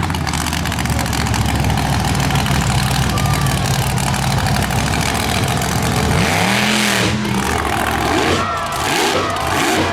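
Monster truck engine running hard, with a rev rising and falling about six seconds in and several quick revs near the end.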